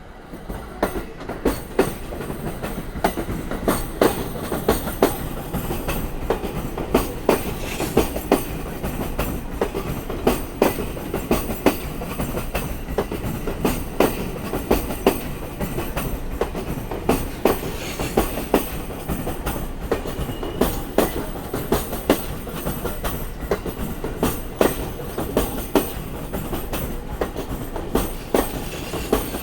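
Electric commuter train passing over rail joints. Loud, sharp clacks come in quick pairs and groups as each bogie's wheels strike a joint, over a steady rolling rumble that starts about half a second in.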